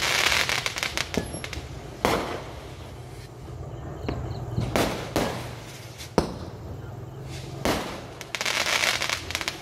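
Aerial fireworks bursting overhead: sharp bangs every second or two, with stretches of dense crackling at the start and again near the end.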